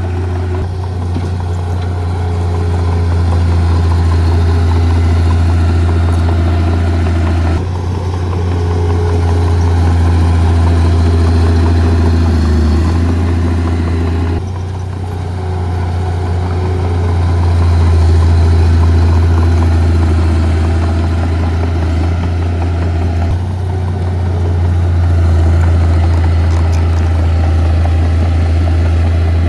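Diesel engine of heavy earth-moving equipment running steadily with a strong low hum, its tone changing abruptly three times.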